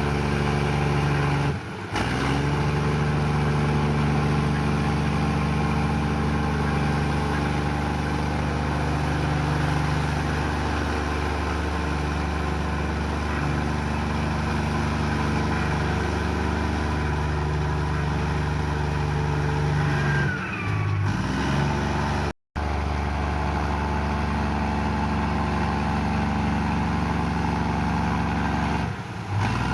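Komatsu bulldozer's diesel engine running steadily under load, its pitch rising and falling a little as it works. The sound drops out briefly a few times, once to complete silence about two-thirds of the way through.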